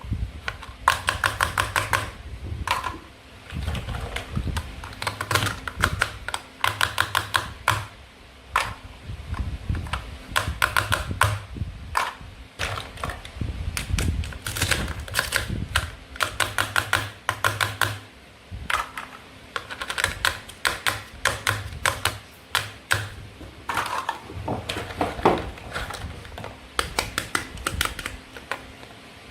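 Toy fruit and vegetable pieces being cut apart with a toy knife: repeated short runs of rapid crackling clicks, one every second or two, with soft knocks on the board between them.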